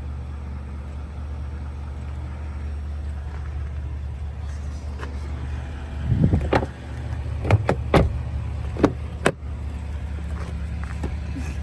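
2019 GMC Sierra's 5.3-litre V8 idling with a steady low hum, with a handful of sharp clicks and knocks past the middle.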